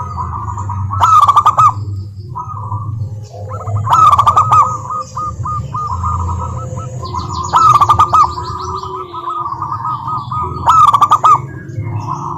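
Zebra doves (perkutut) cooing: four loud bursts of rapid staccato coos about three seconds apart, with softer runs of repeated notes between them. A steady low hum runs underneath.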